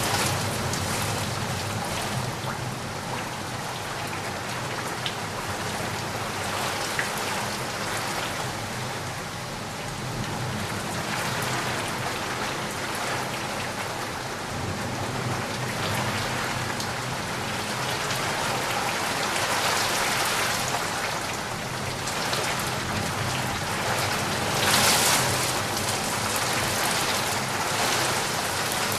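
Heavy rain falling steadily, a dense even hiss of drops, swelling briefly louder near the end.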